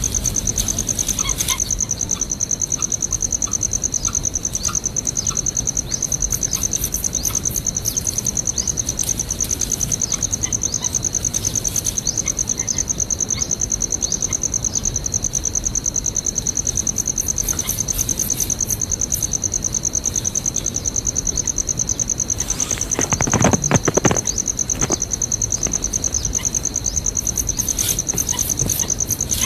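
Steady, high-pitched drone of insects such as crickets, with scattered faint chirps. A loud rustling burst comes about 23 seconds in, lasting a second or two.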